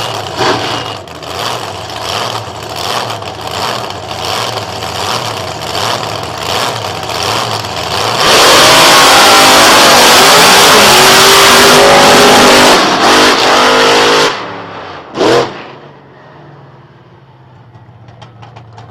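Monster truck engine running with a lumpy, pulsing idle, then revved hard for about six seconds, loud enough to overload the recording. It cuts back, gives one short blip, and settles to a low idle.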